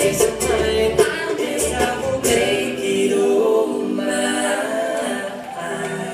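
Live acoustic band with several voices singing held harmonies, a few sharp strummed or struck accents in the first couple of seconds, then a sustained closing chord as the song ends.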